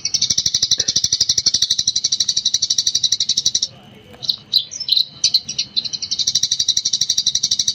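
Eurasian tree sparrow in rapid 'gecor' song, a fast run of high chirps at about a dozen a second. It breaks off a little under four seconds in for a few separate chirps, then picks up the fast run again about two seconds later.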